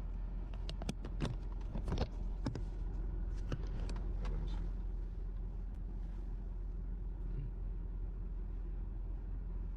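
A car's steady low running rumble heard from inside the cabin, with a quick series of small clicks and knocks over the first four seconds or so.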